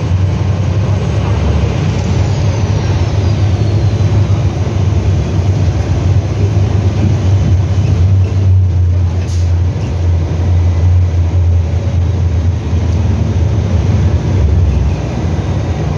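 Scania F360HA bi-articulated BRT bus running: a steady, loud low engine drone over road and body noise, with one brief sharp noise about nine seconds in.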